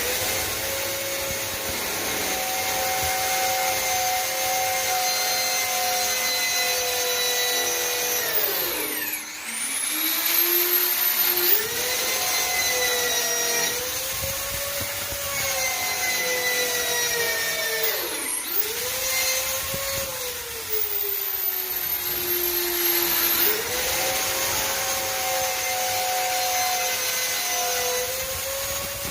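An electric power tool's motor running with a steady whine. Three times, at about 9 s, 18 s and 23 s, it bogs down sharply and spins back up, as when cutting under load.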